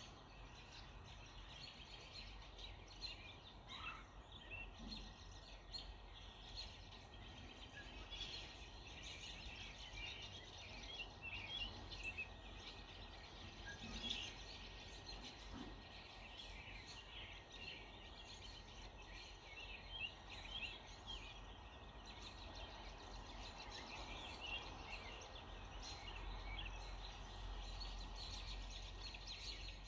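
Early-morning chorus of many small birds chirping and singing at once, faint, with short notes overlapping throughout. A steady low rumble runs underneath.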